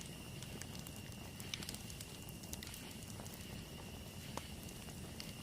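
Campfire crackling softly, with scattered small pops and snaps, a sharper one about a second and a half in and another near the end. A faint, steady high-pitched tone runs underneath.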